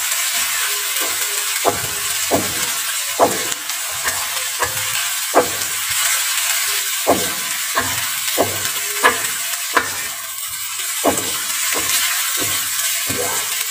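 Chopped shallot, garlic, chili and spring onion sizzling in oil in a wok with a steady hiss, being sautéed until fragrant. A wooden spatula stirs them, scraping and knocking against the wok about once a second.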